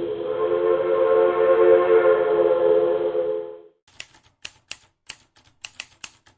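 Train horn sounding one long, loud chord of several tones that stops about three and a half seconds in. A run of sharp, irregular clicks follows.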